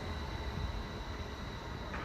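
Class 333 electric multiple unit pulling away out of the station: a steady low rumble with a thin, steady high whine over it.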